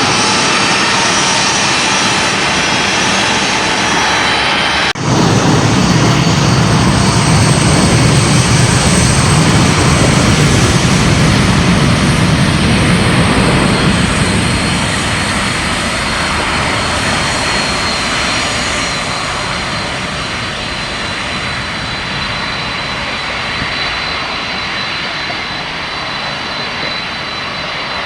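Boeing 747's four jet engines running at close range: a loud, steady jet noise with a high whine. It breaks off abruptly about five seconds in and comes back as a louder, deeper rumble that eases off gradually after about fourteen seconds.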